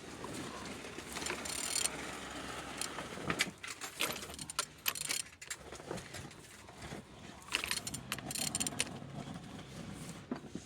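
A used car engine being turned over by hand with a wrench on the crankshaft: irregular metallic clicks, ratcheting and rattles from the tool and the rotating engine. It turns freely, a sign that the engine is not seized.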